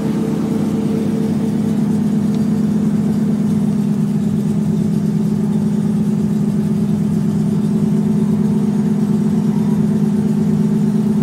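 Nissan Silvia S13's SR20 four-cylinder engine idling steadily, heard from inside the cabin.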